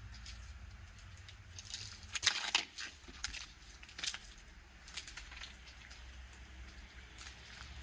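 Footsteps crunching on a gritty surface, about one a second and unevenly spaced, with a louder crunch about two seconds in. A steady low rumble runs underneath.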